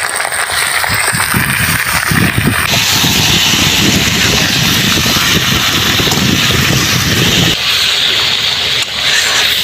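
Chicken pieces sizzling in hot oil with browned onions in a kadhai as they are stirred with a spatula. The sound changes abruptly a few seconds in, and the lower part of it drops away near the end.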